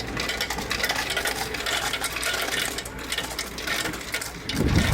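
A rapid, dense clatter of small clicks and rattles. Near the end it gives way to a low rumble.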